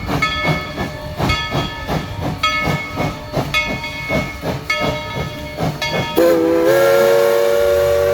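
Tweetsie Railroad's Engine 12, a narrow-gauge steam locomotive, working with a regular beat of chuffs and bell strokes, about two a second. About six seconds in, its chime steam whistle starts with a slight rise in pitch and holds a long, steady blast of several tones.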